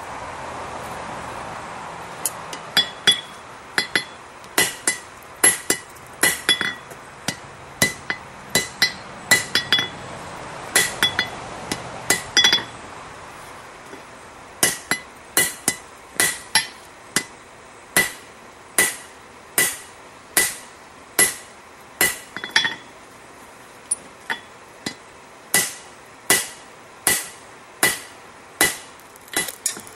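Hammer forging a railroad spike on an anvil: sharp ringing blows, in irregular runs for the first ten seconds or so, then after a short pause a steady beat of about one and a half blows a second.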